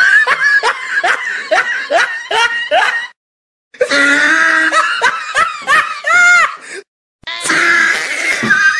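Laughter in quick repeated bursts, each falling in pitch, broken off abruptly twice by short silent gaps.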